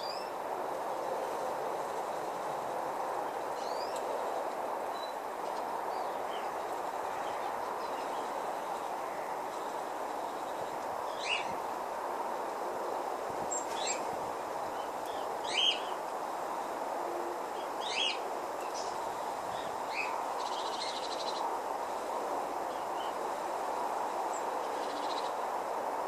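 Small garden birds giving a handful of short, high chirps, spread through the middle, over a steady background rush.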